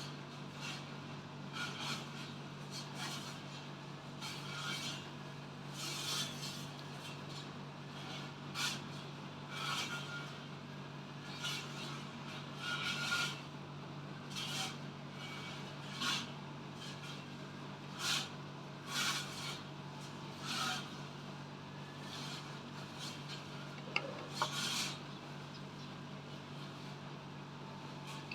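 Eating sounds: short crunching and scraping noises every second or so, over a steady low hum.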